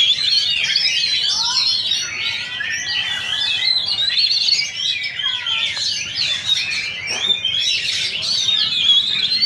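Many caged oriental magpie-robins singing at once in a song contest: a dense, continuous tangle of overlapping high whistles and chirps.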